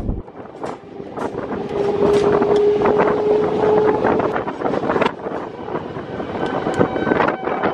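Running noise of a moving EMU commuter train heard from its open doorway: wheels knocking and clicking over rail joints and points under a dense rumble, with wind buffeting the microphone. A steady whine comes in about two seconds in and holds for about two seconds.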